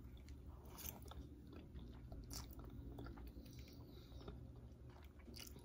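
Faint chewing of a mouthful of spaghetti, with scattered small wet mouth clicks.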